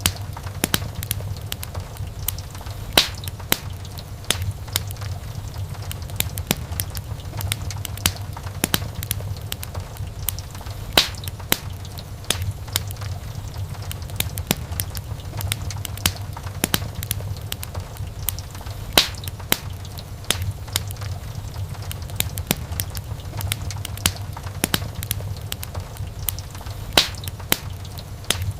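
Burning wood crackling in a fireplace: constant small snaps and ticks over a steady low rumble, with a louder pop about every eight seconds.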